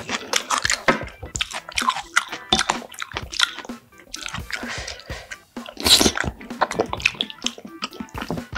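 Close-miked eating sounds: wet chewing of penne pasta in tomato sauce, with sticky mouth clicks and squelches. A wooden spoon scrapes and taps in a ceramic bowl while scooping more pasta.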